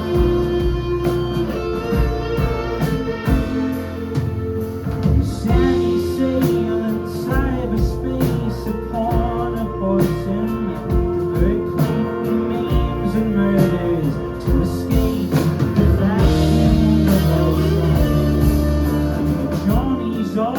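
Live rock band playing an instrumental break of a song: guitar leads over bass and drums.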